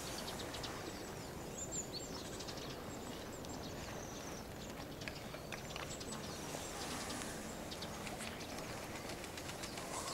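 Short high-pitched calls of small birds, mostly near the start, with scattered light clicks over a steady outdoor background hum.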